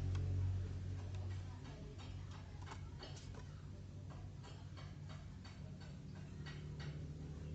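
Light, irregular clicks and taps from a 1:64 diecast toy car with a metal body and plastic wheels being handled, about a dozen in all, over a steady low hum.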